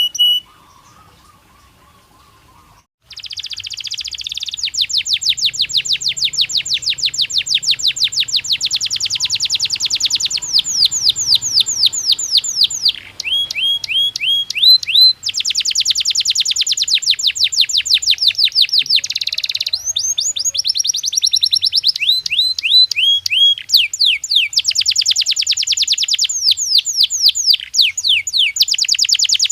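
Domestic canary singing in long, rapid trills of repeated sweeping notes, each phrase at its own pace and pitch, with short breaks between phrases. The song starts about three seconds in, after a quiet opening.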